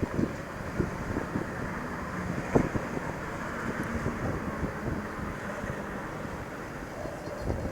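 A train rumbling along the track, with wind buffeting the microphone and irregular knocks scattered through it, the loudest about two and a half seconds in.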